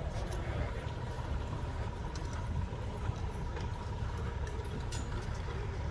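Steady low rumble of idling emergency vehicle engines, with a faint steady high whine and a few small clicks.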